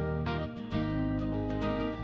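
Background music: plucked-string notes over a steady bass line, changing chords about every half second.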